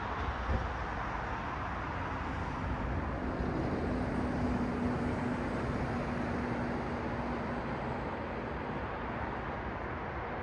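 City road traffic: cars passing in a steady wash of tyre and engine noise, swelling slightly in the middle as one passes closer, with a steady low engine hum for several seconds and a brief low thump near the start.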